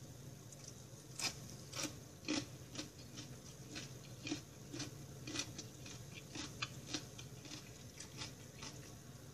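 Close-up chewing of a mouthful of fried black rice with nuts: a run of small crunches and mouth clicks, about two a second, starting about a second in.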